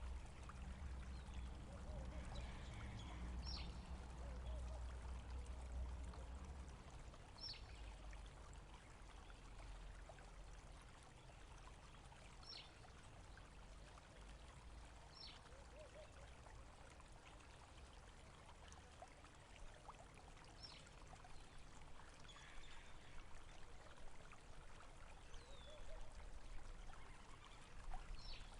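Faint flowing water, with a bird giving a short, high, falling call about every few seconds. A low rumble sits under it for the first several seconds.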